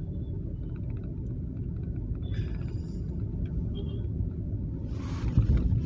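Steady low rumble, with a brief louder hissing rush about five seconds in.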